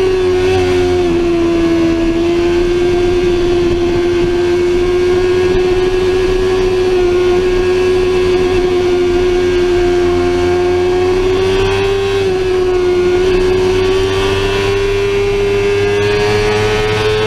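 Sportbike engine held at high revs, a steady high drone with a low rush of wind beneath; its pitch sags slightly about a second in and again near the thirteen-second mark, then slowly climbs.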